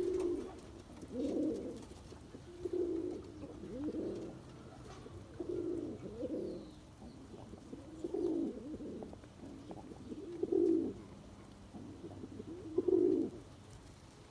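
Domestic pigeon cooing: low, throaty coos repeated about every two seconds, around eight phrases in all.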